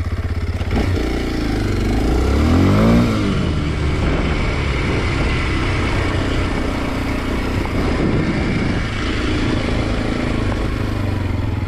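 Kawasaki KLX230 SM's single-cylinder four-stroke engine idling, then revving up about a second in, its pitch climbing to a peak near three seconds, then running on with the throttle varying.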